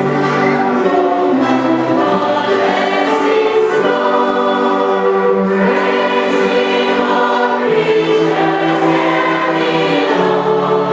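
A choir singing a hymn in sustained chords, with notes held for a second or more before moving to the next.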